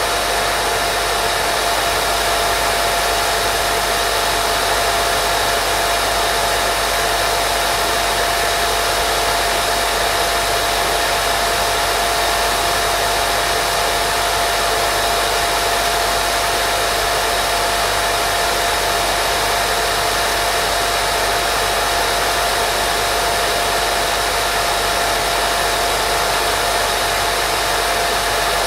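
Steady, unchanging white noise of the kind played to settle a baby to sleep, hissing like a hair dryer, with a faint steady tone running through it.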